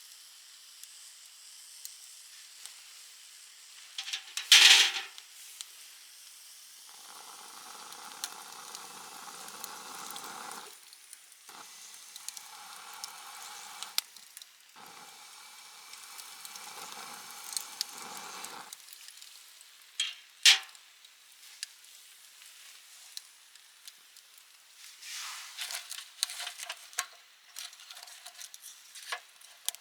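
Food sizzling and frying on a grill over a campfire, with scattered sharp clicks. A loud, short hiss comes about four seconds in, and another about twenty seconds in.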